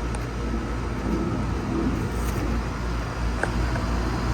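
Rheem central air conditioner condenser running steadily: a scroll compressor hum under the outdoor fan.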